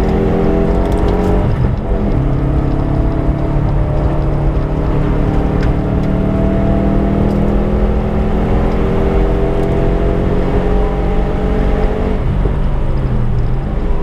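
Subaru Impreza's tuned turbocharged flat-four engine pulling under load on track. It upshifts about two seconds in and again near the end, and the engine note climbs steadily for about ten seconds in between.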